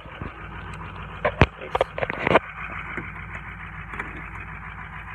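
The 2004 Ford Excursion's 6.0-litre Power Stroke V8 turbo-diesel idling steadily in the cold. A cluster of short knocks and crunches comes between about one and two and a half seconds in.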